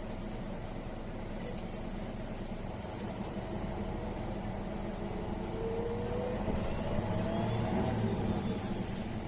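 MAN A21 city bus running on the move, a steady diesel drone and road noise with a whine rising in pitch from about halfway through as the bus gathers speed.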